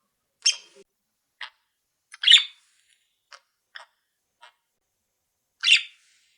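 Caged pet birds calling: three loud, short, sharp calls, near the start, about two seconds in and near the end, with several faint short chirps between.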